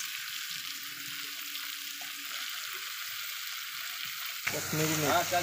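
Oil sizzling steadily in a steel pot of frying onion and chilli as handfuls of sliced bitter gourd (karela) are dropped in by hand. A voice starts near the end.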